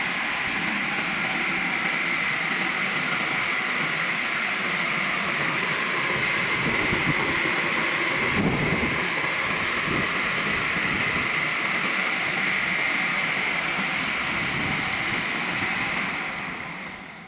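High-pressure water jets of a single-arm touchless car wash machine spraying a car: a steady, loud hiss that dies away near the end.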